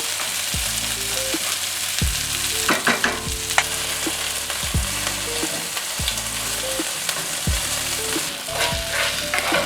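Rice frying and being stirred in a hot oiled wok: a steady sizzle with a few sharp scrapes and clatters a few seconds in and again near the end. Under it runs background music with a bass line and a steady kick drum.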